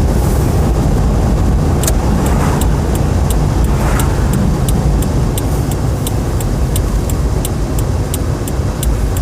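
Car driving, heard from inside the cabin: a steady low engine and road rumble. From about two seconds in, an even ticking of about three clicks a second runs over it.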